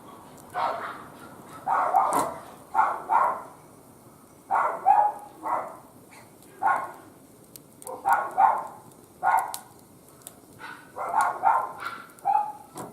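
A dog barking again and again in short runs of two or three barks, over the faint crackle of a wood fire.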